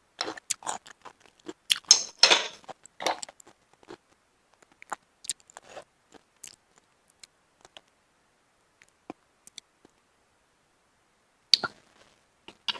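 Close-miked chewing and wet mouth clicks of someone eating snails and oysters, dense and loudest in the first few seconds, then thinning to scattered clicks, with a short quiet stretch and one sharp click near the end.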